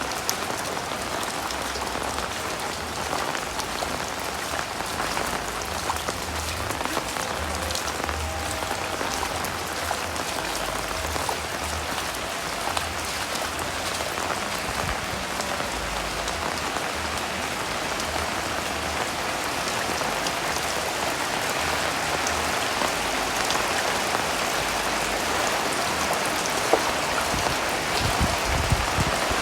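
Heavy rain falling steadily: a dense hiss with scattered sharper drop hits, growing a little louder in the second half.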